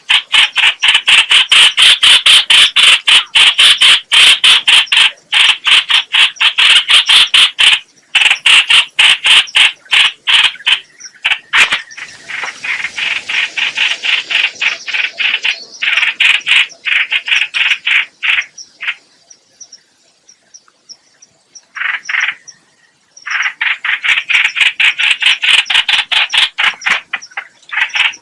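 Decoy-call recording of the bird called trao trảo (chao chảo or hoành hoạch) in Vietnamese: long runs of fast, harsh chattering notes, about six a second, broken by a few short pauses and a longer lull past the middle.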